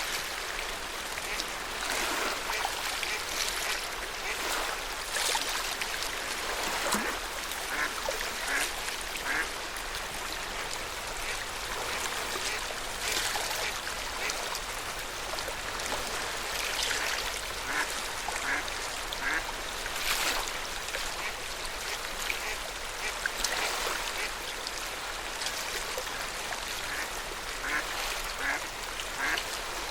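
Small waves of Lake Yamanaka lapping and splashing irregularly at the shore.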